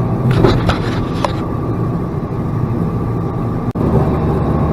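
Diesel engine of a Freightliner plow truck running steadily, heard from inside the cab, with a few sharp rattling clatters about half a second to a second in. The sound drops out for an instant near the end.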